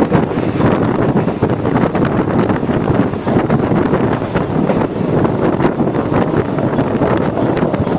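Moving passenger train: a steady rush of wind buffeting the microphone over the running rumble and light clatter of the wheels on the rails.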